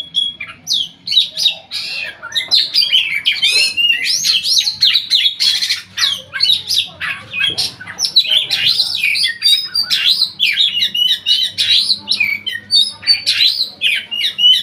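Oriental magpie-robin (kacer) singing loudly and without pause: a fast, varied run of sliding whistles, twitters and harsh notes.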